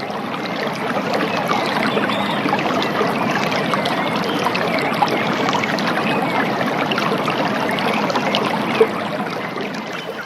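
Steady sound of running water, like a flowing stream or cascade.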